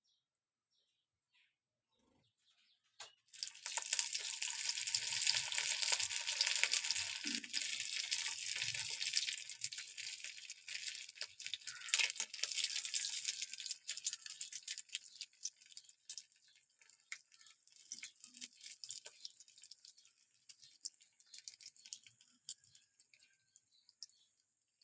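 Food sizzling and crackling in hot oil, starting suddenly about three seconds in and gradually dying down to scattered pops.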